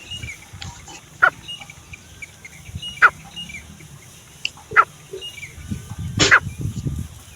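Grey francolin (desi teetar) calling: four short, sharp call notes spaced about one and a half to two seconds apart, with fainter chirps in between.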